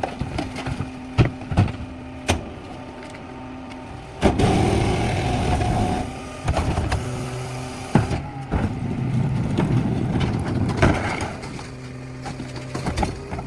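Garbage truck's diesel engine idling, with sharp metal clanks and knocks. About four seconds in, the engine revs up and a whine comes in for several seconds, then it settles back toward idle near the end.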